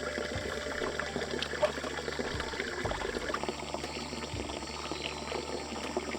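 Running water, a steady flow with small crackling ticks.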